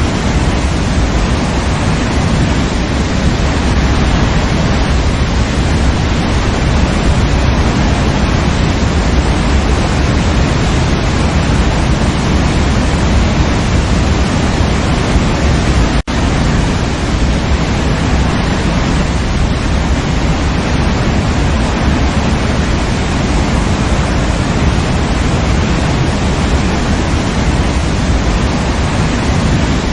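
Waterfall rushing in a steady, loud, even roar of falling water, with a split-second drop-out about halfway through.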